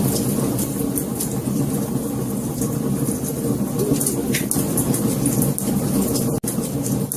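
Fire burning with a steady low roar and frequent sharp crackles and pops. The sound cuts out for an instant about six seconds in.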